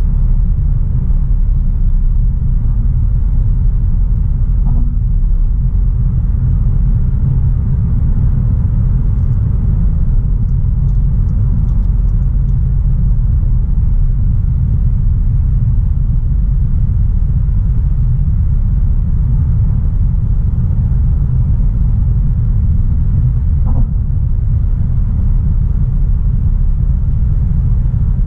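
Steady low rumble of a 2016 Audi A3 Sportback 1.4 TFSI on the move, mixing its turbocharged four-cylinder petrol engine with tyre and road noise, heard from inside the cabin at an even pace.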